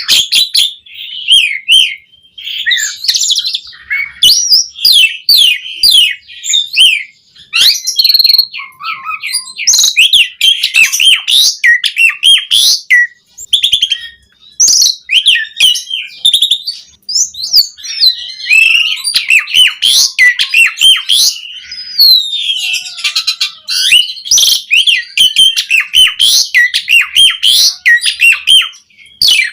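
Asian pied starling (jalak suren) singing a long, varied song: quick runs of chirps, whistles and harsh notes, one after another with only brief pauses.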